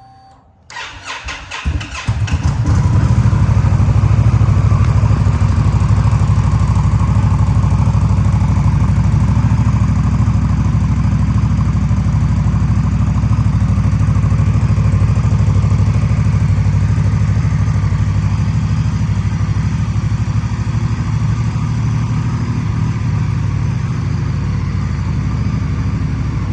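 2024 Indian Scout motorcycle's V-twin engine being started: the electric starter cranks briefly, the engine catches about two seconds in and settles into a steady idle that eases off slightly later on.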